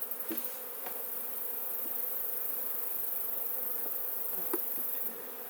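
Honeybee colony buzzing steadily around a hive that is being opened and lifted, with a few faint knocks.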